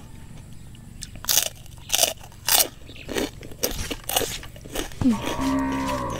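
Close-up crunchy chewing of crisp food, about six loud crunches in the first four seconds, followed near the end by a short hummed "mmm" from the eater.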